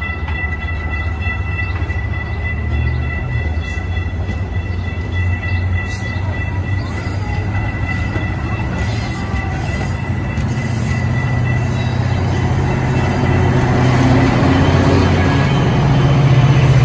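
Metra bilevel commuter train rolling past at low speed: a steady wheel-on-rail rumble with a high whine throughout. Near the end the MP36PH-3S diesel locomotive comes by close up, and its engine drone grows louder.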